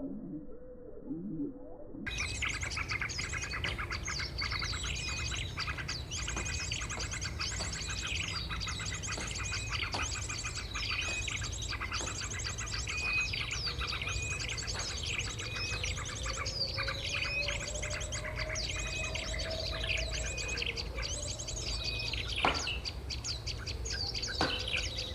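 Golden-bellied gerygone (remetuk laut) song: high, thin trilling phrases repeated about once a second, starting about two seconds in, over a low steady rumble.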